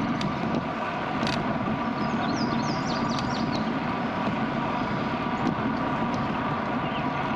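Steady rolling noise of a moving bicycle, tyres on the road with wind on the microphone, and a brief run of high chirps about two seconds in.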